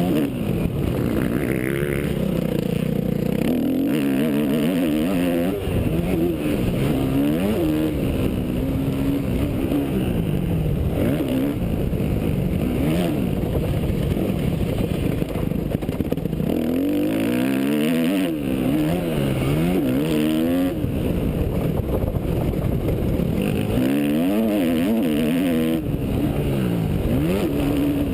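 Yamaha YZ250F four-stroke motocross bike ridden hard on a dirt track, its engine revving up and dropping back again and again as the throttle is worked on and off.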